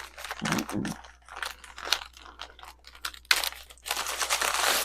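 Jewelry wrapping being handled and opened: irregular crinkling and crackling that gets denser and louder over the last second and a half.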